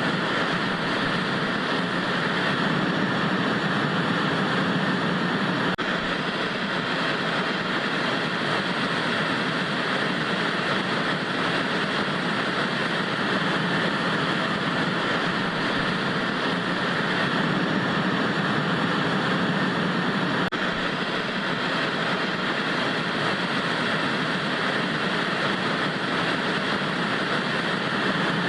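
Steady hiss of analog TV static with an even, unchanging texture.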